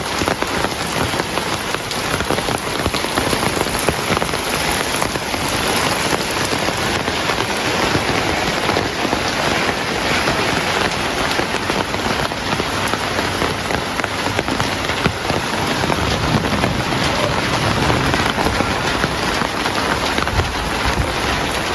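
Heavy rain falling steadily, a dense even hiss of drops. In the last few seconds a low rumble of distant thunder builds beneath it.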